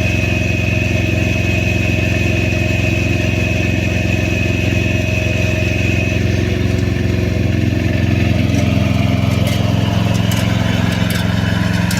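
MTD snowblower's small engine running steadily, with a thin high whine that stops about halfway through and a few sharp clicks near the end.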